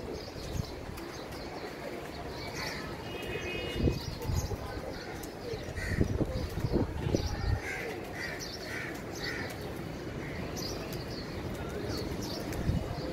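Birds calling outdoors: short, harsh calls, a run of about four in quick succession in the middle, over low rumble and a few low thumps on the microphone.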